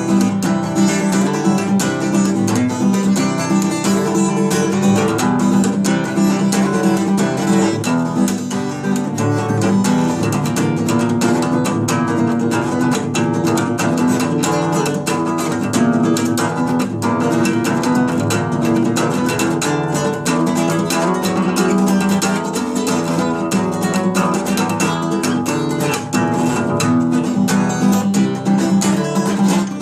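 Acoustic guitar being played continuously as an instrumental jam.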